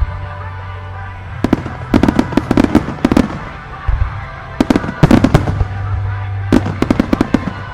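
Aerial fireworks bursting in three quick volleys of sharp reports, one after another, over music played along with the display.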